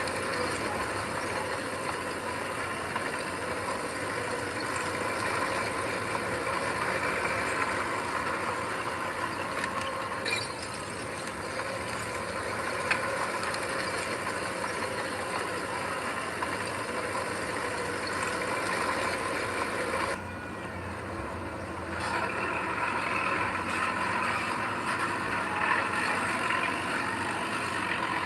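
Diesel engine of heavy earthmoving machinery running steadily, with a dense mechanical din. The higher part of the sound drops out abruptly for about two seconds about twenty seconds in, then returns.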